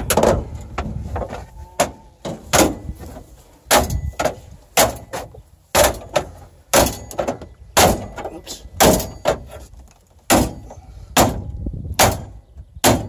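Repeated blows of a hand tool smashing into a GMC truck's dashboard, about a dozen sharp strikes roughly one a second.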